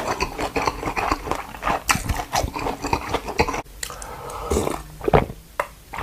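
Giant panda chewing food, with dense irregular crunching. About halfway through the sound changes abruptly to quieter chewing broken by a few louder single sounds.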